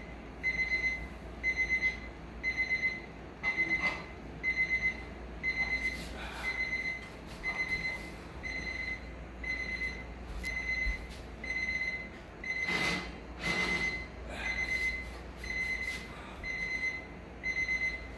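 Kitchen timer beeping in short groups of quick high beeps, about one group a second, signalling that the cooking time is up. A couple of brief clatters come about 13 seconds in.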